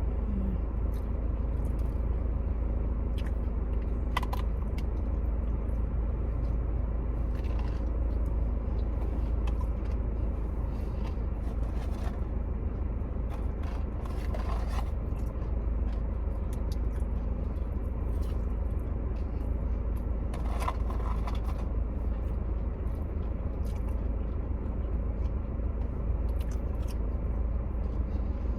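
Eating sounds, with scattered short clicks, scrapes and crunches of food and packaging, over a steady low rumble.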